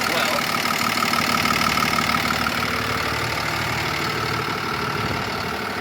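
Freightliner M2 106 Plus truck's Cummins 6.7-litre diesel engine idling steadily.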